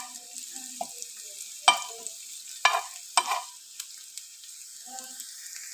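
Chopped onion and green chillies sizzling in oil on a flat tawa, stirred with a metal spatula that scrapes and taps on the pan several times, three sharp strikes standing out in the middle.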